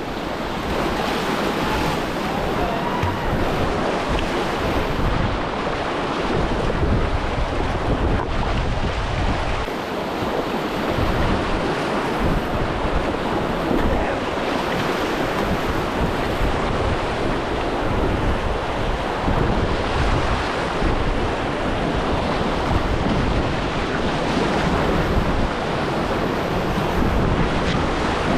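Whitewater river rushing steadily around a kayak, with wind buffeting the microphone in an uneven low rumble.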